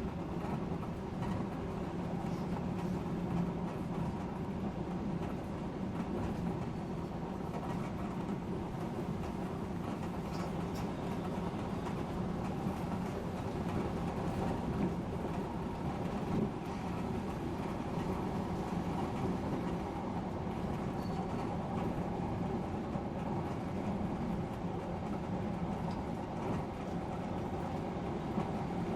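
Odakyu Line electric commuter train running at speed between stations, heard from inside the front car: a steady rumble of wheels on rail with a constant low hum.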